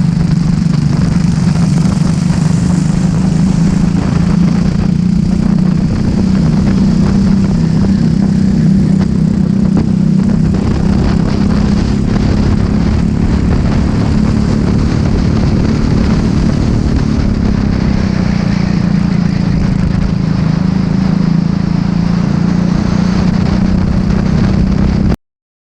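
Racing kart engine running at a steady, high pitch with little rise or fall, heard onboard with wind noise; the sound cuts off suddenly near the end.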